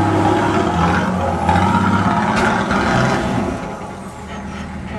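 Four-wheel-drive's engine revving under load as it climbs a rocky step, the revs rising and falling in steps, then easing off to a quieter, lower run about three and a half seconds in.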